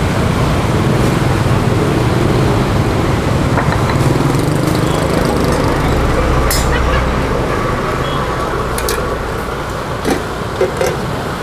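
Steady road traffic noise with engines running past, and a few short sharp clicks near the end.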